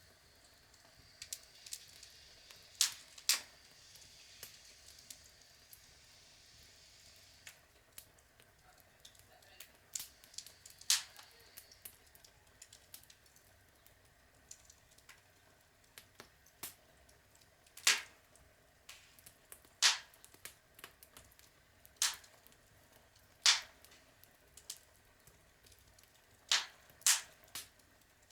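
Outdoor log fire crackling: irregular sharp pops and snaps from the burning wood over a faint steady hiss, with a dozen or so louder cracks scattered through.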